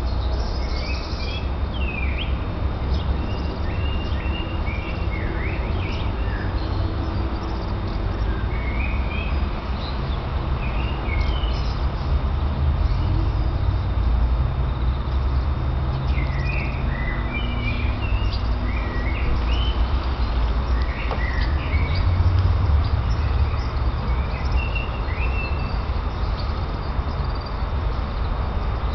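Small birds chirping and twittering on and off, over a steady low rumble.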